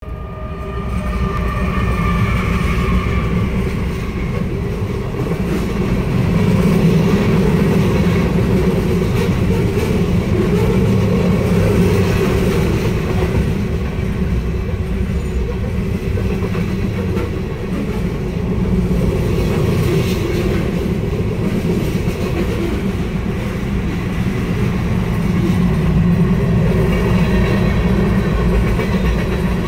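A diesel-led freight train passing close by over a grade crossing, heard from inside a car: a steady rumble of freight cars rolling by, with wheels clacking over the rail joints.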